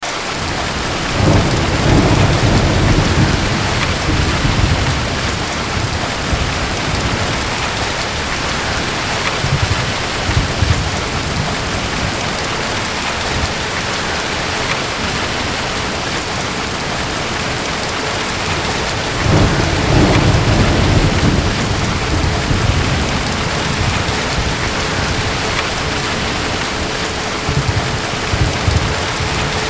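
Steady heavy rain with distant thunder rumbling twice, about a second in and again about nineteen seconds in, each roll lasting a few seconds.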